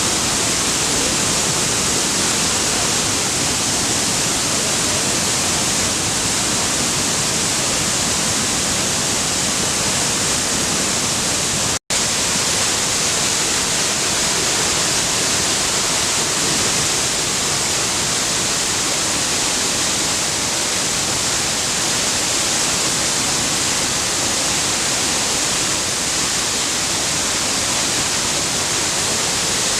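Waterfall rushing: a steady, loud hiss of falling water with no changes. It cuts out for an instant about twelve seconds in.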